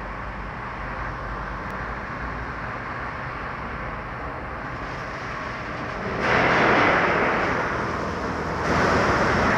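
Touchless automatic car wash running, with a steady low hum from its equipment. About six seconds in, a loud hiss of spray jets starts, dips briefly and picks up again near the end.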